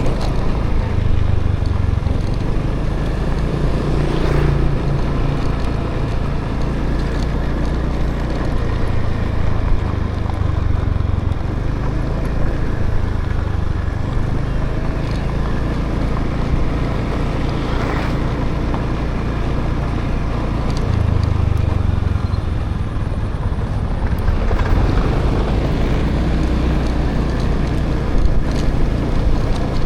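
Motorbike engine running while riding, its low note shifting up and down with the throttle, with wind rushing over the microphone.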